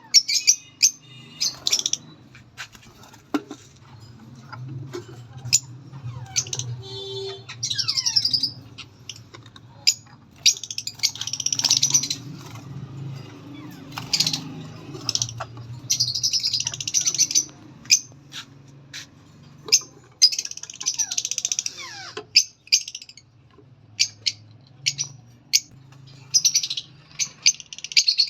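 Albino black-eyed parrots calling: sharp, high single chirps throughout, broken every few seconds by one- to two-second spells of rapid, screechy chatter, over a low steady hum.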